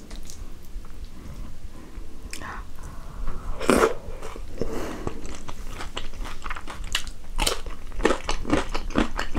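Close-miked eating sounds of rice and chicken stew eaten by hand: a loud smack about four seconds in as the handful goes into the mouth, then chewing with rapid lip smacks and clicks.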